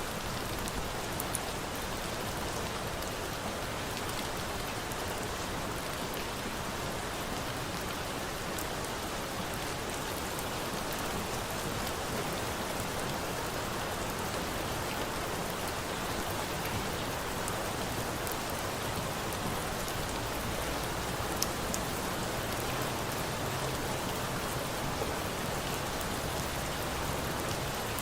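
Steady rain falling with an even hiss, mixed with a campfire that gives a few sharp pops and crackles scattered through it.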